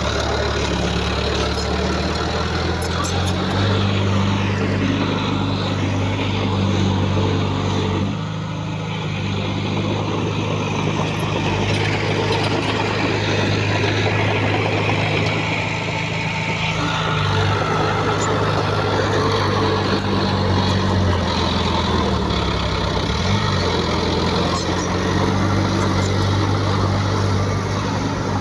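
Heavy diesel earthmoving machinery running steadily, its engine note stepping up and down several times as the load or throttle changes. Faint metallic clicks can be heard now and then.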